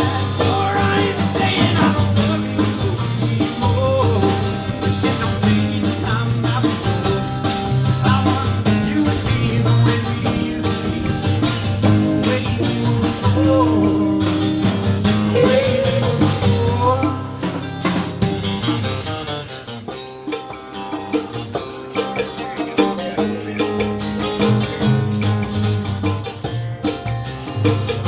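Live blues band playing an instrumental passage, an electric guitar taking a solo with bent notes over the band. The band drops back somewhat about two-thirds of the way through.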